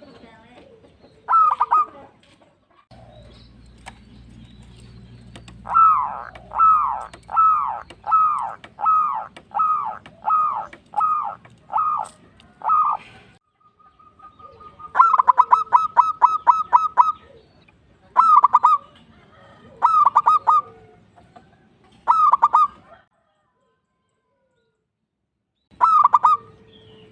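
Zebra dove (perkutut) cooing: a series of about ten short, falling coos, then a fast rattling run of notes and several short coo phrases with pauses between them.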